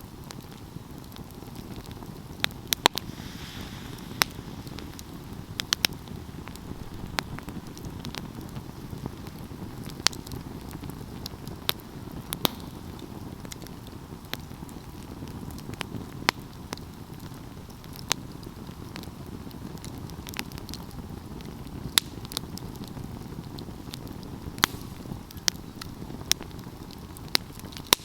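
Wood fire crackling and popping, with sharp snaps at irregular intervals over a steady low rush of burning flames.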